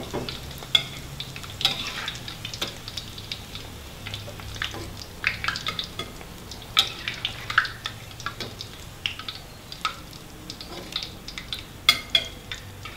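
Thai fish cakes deep-frying in a wok of hot oil, a steady sizzle with crackling pops, while a metal spatula scrapes and taps against the wok and plate as the cakes are lifted out. There are many sharp clicks throughout, with a few louder taps near the end.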